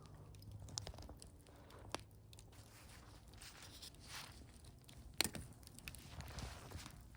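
Wood fire in a fire pit crackling, with scattered sharp pops and snaps, the loudest a little after five seconds in, and a few brief hissing swells between them.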